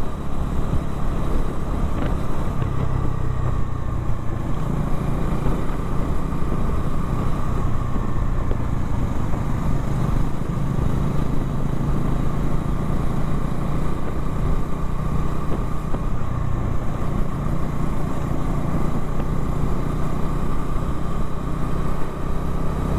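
Motorcycle engine running steadily while riding at an even speed, heard from the rider's own bike.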